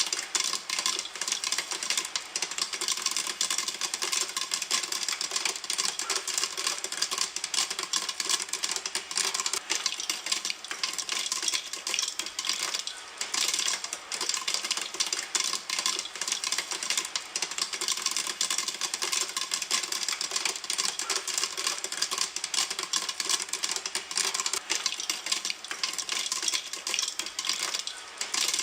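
Popcorn popping in a pan: a dense, continuous crackle of many small sharp pops overlapping each other, at full popping.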